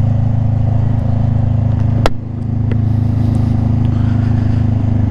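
Honda CBR500R's parallel-twin engine running steadily under way. About two seconds in there is a sharp click, and the engine sound dips briefly before coming back up.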